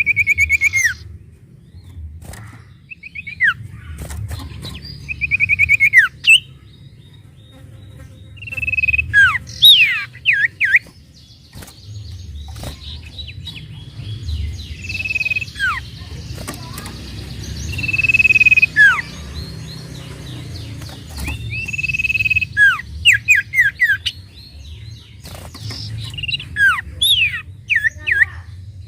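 Sirtu songbird singing repeated whistled phrases every few seconds: clear held notes that break off into quick downward-sweeping notes, some given as fast trilled runs, over a steady low rumble.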